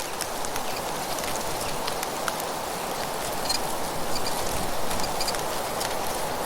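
Nature ambience of wind and rustling dry leaves: a steady rushing hiss with fine crackling ticks throughout, and a few short, faint bird chirps.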